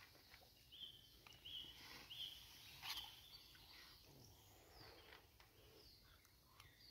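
Near silence with faint bird calls: a short high chirp repeated three times in the first two seconds, then a few fainter falling notes. A faint click comes about three seconds in.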